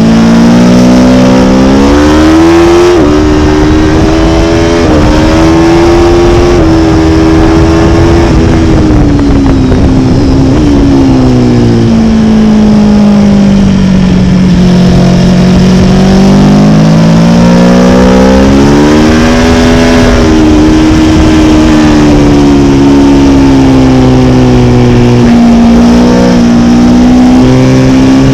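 Motorcycle engine heard from on the bike while riding. Its pitch climbs as it accelerates over the first few seconds, sinks as it slows from about ten to fifteen seconds in, then climbs again around twenty seconds.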